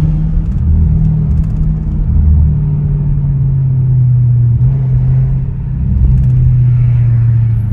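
Straight-piped Audi S7 exhaust giving a loud, steady deep drone while cruising, echoing off tall city buildings.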